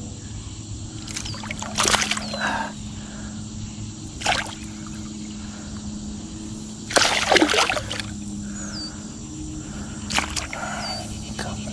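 Hooked bass splashing at the water's surface in four short bursts, the loudest about seven seconds in, over a steady low hum.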